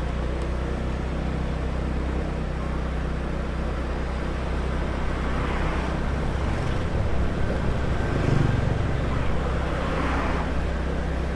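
Small motor scooter running steadily under way, its engine hum mixed with road noise, with a few louder swells in the second half.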